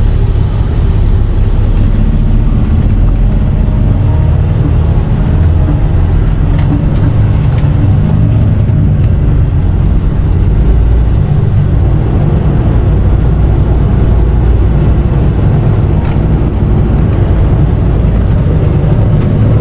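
Semi-truck's diesel engine running at low speed, heard from inside the cab as a steady low rumble, while the truck is manoeuvred into a parking spot; a few faint clicks sound over it.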